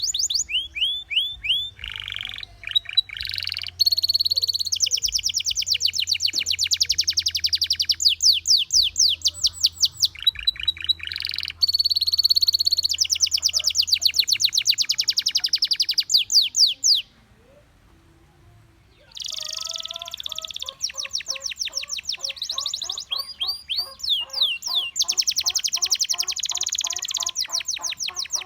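Gloster canary singing in long, fast trills of rapidly repeated sweeping notes. The song breaks off for about two seconds a little past halfway, then resumes with lower repeated notes under the high trills.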